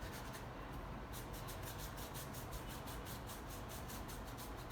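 Paintbrush scrubbing back and forth across the painting surface while glazing with thinned paint: a quick, even run of short scratchy strokes, about six or seven a second, starting about a second in.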